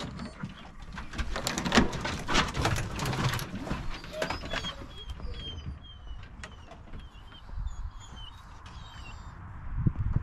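Knocks and rustling for the first few seconds, then a small bird calling a quick run of short, high chirps that each fall in pitch.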